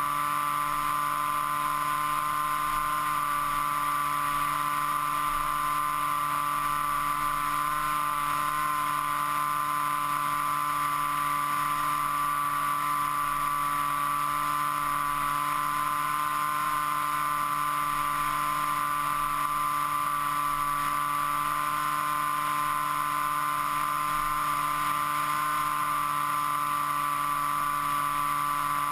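Motor and propeller of an FPV model aircraft in flight, heard from its onboard camera: a steady whine that holds nearly the same pitch throughout.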